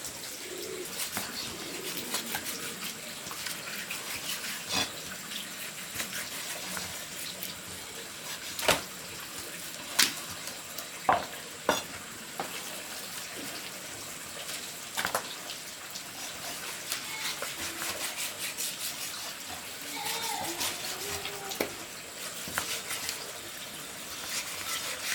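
Food-preparation handling sounds: scattered sharp knocks and clicks over a steady low hiss, with no talking.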